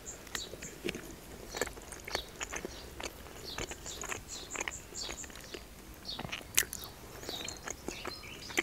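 A person chewing food close to the microphone: many small, sharp wet mouth clicks and smacks.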